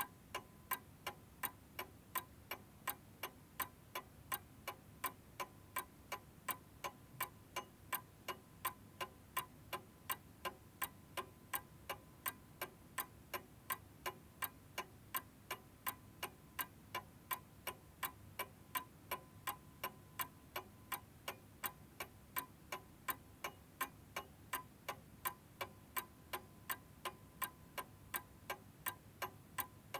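Mechanical clock ticking steadily, about two and a half sharp ticks a second, with no chime.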